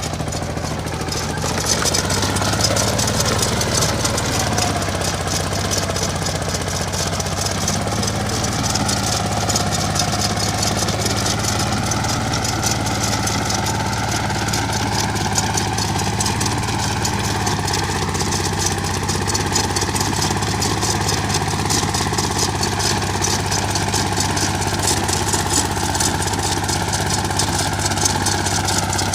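Mini tractor engine running steadily, picking up a little about two seconds in.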